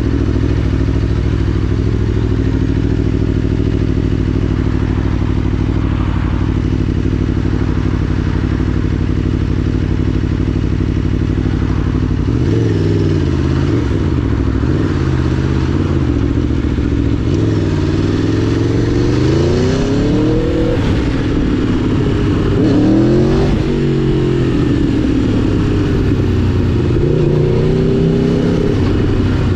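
2011 Aprilia Tuono V4 1000's V4 engine running at a steady note for about the first twelve seconds, then rising and falling in pitch again and again as the bike accelerates and slows.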